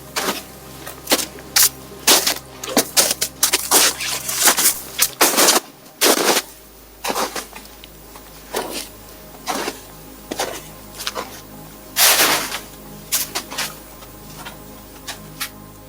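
A run of irregular sharp cracks and crunches, a couple of them longer, over soft background music.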